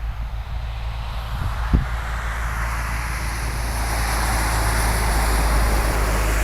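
A motor vehicle's noise swelling and then holding steady, as if it is approaching, over a low wind rumble on the microphone. There is a single short knock just under two seconds in.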